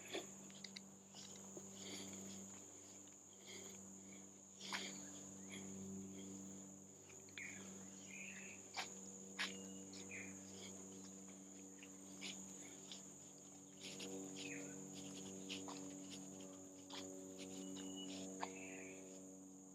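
Faint, steady high-pitched drone of forest insects, with scattered light clicks and a few short chirps.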